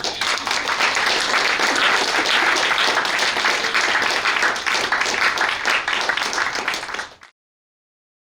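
Audience applauding, a dense patter of many hands clapping, cut off abruptly about seven seconds in.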